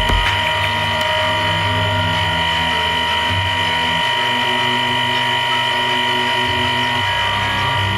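Hwacheon Cutex 180 CNC lathe running, a steady high-pitched machine whine over a lower hum that shifts in pitch a couple of times.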